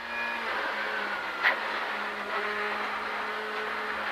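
Ford Fiesta R5 rally car's 1.6-litre turbocharged four-cylinder engine running at fairly steady revs, heard from inside the cabin, with one short sharp crack about one and a half seconds in.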